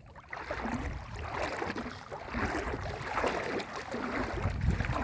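Floodwater sloshing and splashing around the legs of a person wading knee deep, surging with each stride about once a second.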